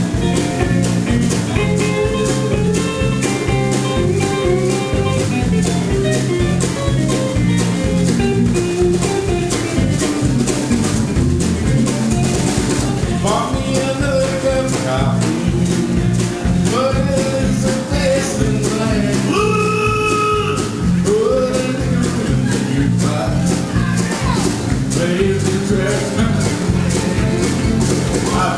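Instrumental break of a country song: a steady drum beat and bass under a lead guitar line with bent notes.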